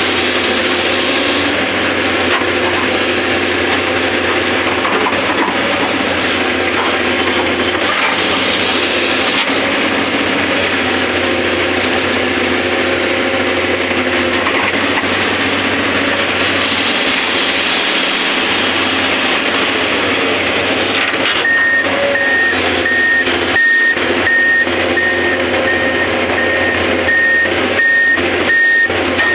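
Excavator running with a steady engine and hydraulic drone. About two-thirds of the way through, its travel or reversing alarm starts beeping in a fast, even rhythm, which signals that the machine is moving.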